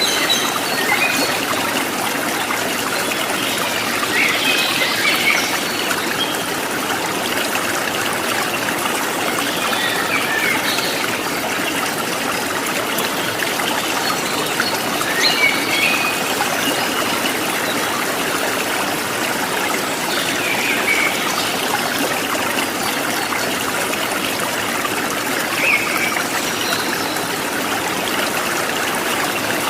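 Stream of running water trickling steadily, with short bird chirps every few seconds.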